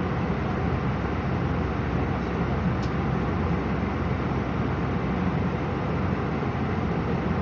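Steady cabin noise inside an Airbus A319 airliner: an even, unbroken rumble and hiss.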